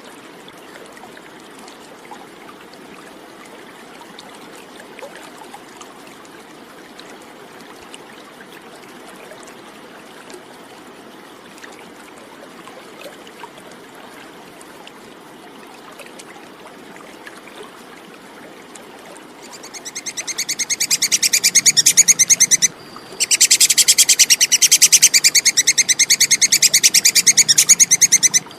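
Faint steady background hiss, like trickling water, then about two-thirds of the way in a tupai (squirrel) starts a loud, fast, high-pitched chattering call of rapidly repeated notes. The call builds up, breaks off briefly, and carries on.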